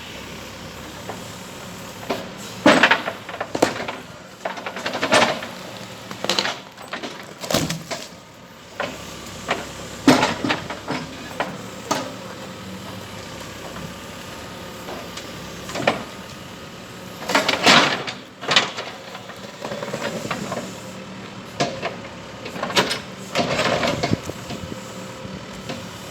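Terex 815 backhoe loader's diesel engine running steadily, with repeated loud clanks and bangs at irregular intervals as the machine works at knocking down concrete posts.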